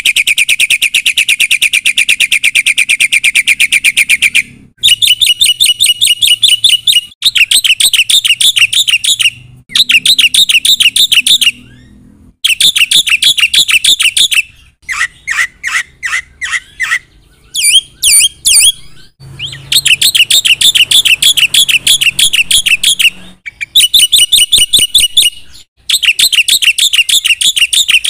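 Black-winged starling (jalak putih) singing in loud runs of very rapid, repeated high chattering notes, each run lasting two to four seconds with short breaks between. Around the middle comes a slower series of lower notes and a few quick rising whistles.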